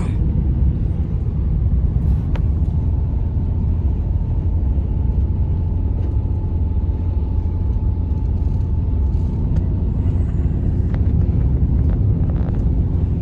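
Blizzard wind: a loud, steady low rumble, with a faint thin whistle held over it for most of the time.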